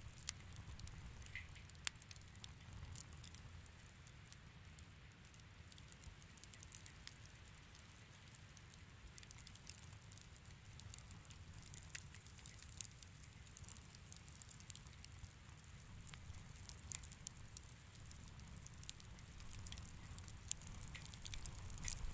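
Wood fire in a fireplace crackling and popping softly, with scattered sharp pops over a faint low rumble of the flames. The pops come more often near the end.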